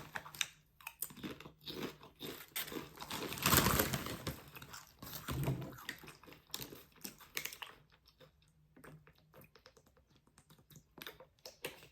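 Crackly rustling and crunching of Doritos tortilla chips and their crinkly bag being handled. The busiest, loudest stretch comes about three and a half seconds in, and it thins out to sparse faint clicks after about eight seconds.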